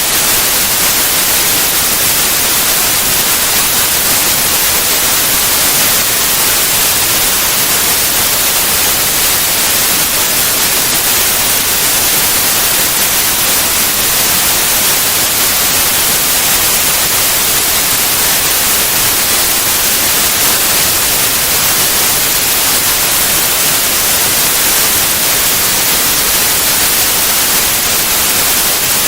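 Steady white noise: an even, unchanging hiss, brightest in the high end, with no tones or changes.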